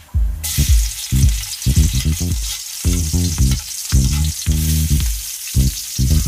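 Garlic and onion sizzling in hot oil in a metal wok, stirred with a metal spatula. The sizzle starts suddenly about half a second in, as the garlic hits the oil. Bass-heavy background music plays underneath.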